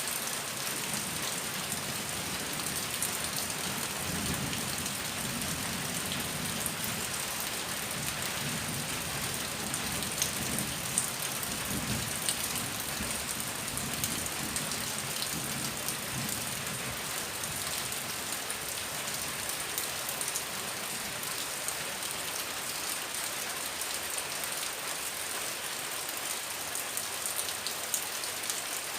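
Heavy rain falling steadily, with scattered drops ticking, and a low rumble of thunder through the first half.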